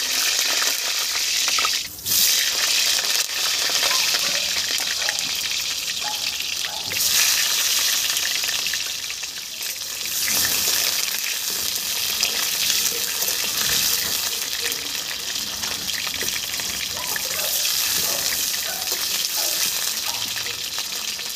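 Potato chunks sizzling in hot oil in a kadai (wok) over a wood fire, with a metal spatula stirring and turning them.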